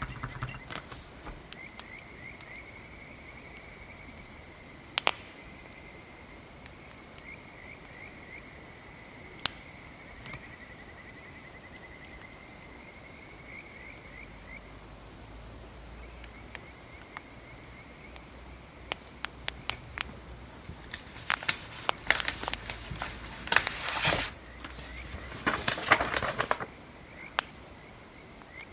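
Bonfire crackling with scattered sharp pops, over a steady, fast-pulsing high trill. Toward the end there are several seconds of denser crackling and scratching.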